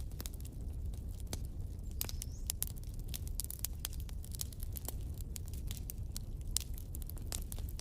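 Wood fire of burning logs crackling: a steady low rumble of flame under many small, irregular pops and snaps.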